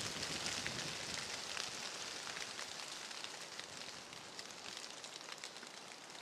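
Water droplets lightly pattering on leaf litter: a dense, even spatter of tiny ticks that grows a little fainter toward the end.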